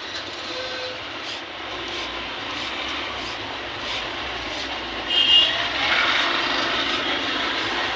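Hand cleaning of a brass harmonium reed: a tool scraping metal in even strokes, about two a second, over a steady background noise, with one louder scrape a little past five seconds.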